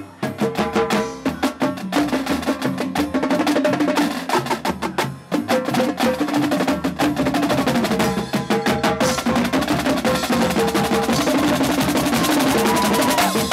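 Marching drumline playing a fast cadence: rapid snare strikes and rolls with pitched tenor drums, thickening to a denser, hissier wash of sound in the second half.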